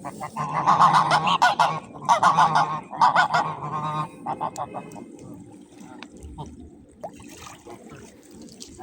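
Waterfowl honking: a run of loud, repeated honks over the first four seconds, then quieter.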